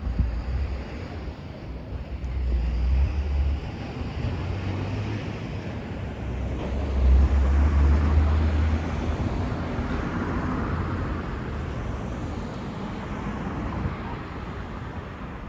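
Roadside traffic: motor vehicles passing, with a heavy low rumble swelling twice, about two seconds in and again around seven seconds in.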